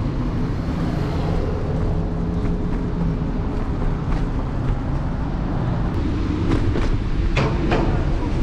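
Electric scooter ride heard from a handlebar-mounted action camera: a steady low rumble of wind and road noise. A faint steady tone runs for a few seconds starting about a second in, and a few sharp clicks or rattles come near the end.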